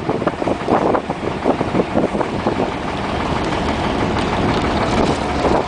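Sampan's motor running underway, a steady low rumble.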